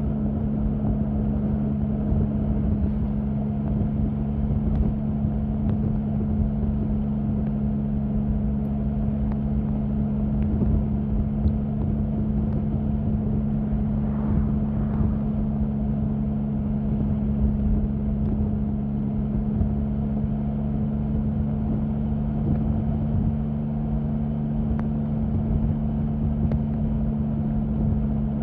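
Triumph Sprint 1050's inline three-cylinder engine running at steady, unchanging revs, a constant low drone with a rumbling undertone.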